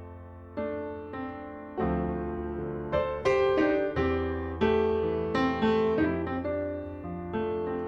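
Background piano music: notes and chords struck one after another and left to ring and fade over a held bass.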